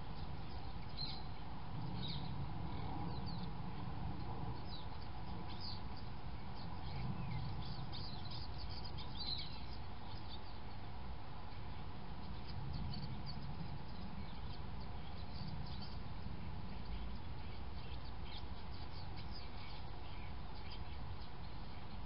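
Many small birds chirping, with short high calls scattered throughout. Underneath runs a steady low rumble and a faint steady hum.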